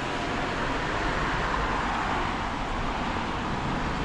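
Steady road traffic noise: the even hiss of car tyres on a wet road.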